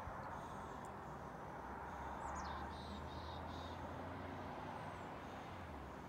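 Faint, scattered bird chirps, with a quick cluster of high notes about two seconds in, over a steady low outdoor background hum.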